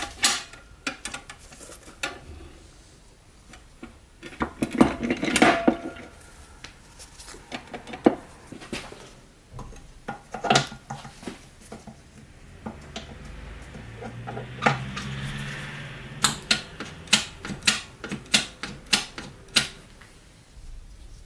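Metal transmission parts clinking and knocking as they are handled and set down, in irregular taps and clacks. A few seconds of faint steady noise with a low hum come a little past the middle, followed by a run of sharp clicks near the end.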